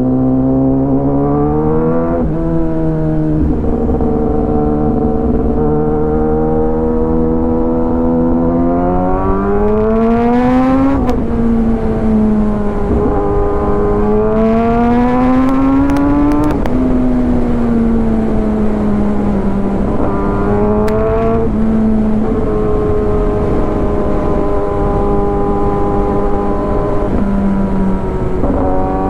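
Kawasaki ZX-10R's inline-four engine through an Arrow full exhaust system, heard from the rider's helmet on the move. Its pitch climbs under throttle and drops sharply at an upshift about eleven seconds in. It pulls again, then eases off and settles into a steady cruise, with a low rush of wind and road noise underneath.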